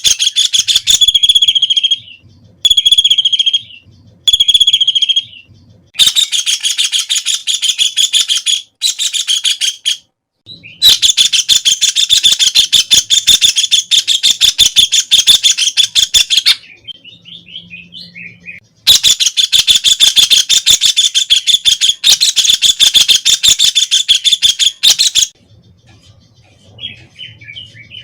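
White-throated kingfisher calling: three short trilled calls, then long, rapid rattling trills in bursts, the two longest running about six seconds each.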